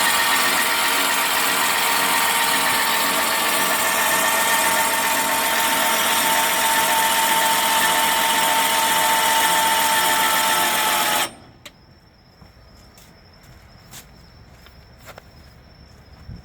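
A small electric motor runs with a steady whine and stops abruptly about eleven seconds in. A few faint clicks follow.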